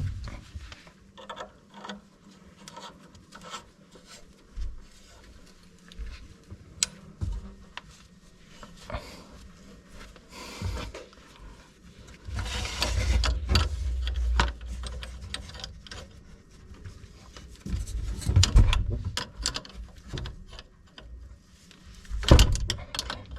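Hand tools working on a metal water-pipe fitting while the old washing-machine tap is being removed: scattered clicks and knocks, a longer stretch of rubbing noise about twelve seconds in, and a few sharper knocks near the end.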